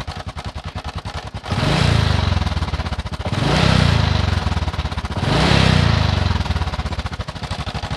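Honda Supra X 125 single-cylinder four-stroke motorcycle engine idling and revved three times, each rev falling back to idle. It has a rough, harsh noise that the mechanic places at the front of the engine, around the cylinder block or head.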